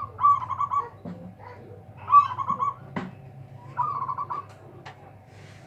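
Zebra dove (perkutut) cooing: three phrases of quick, rolling notes, about one and a half seconds apart. A sharp click comes about three seconds in.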